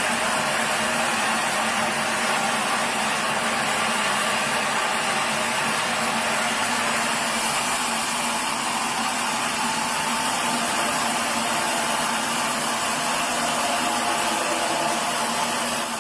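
Sawmill running with a steady, loud machine noise and a constant hum, dropping off right at the end.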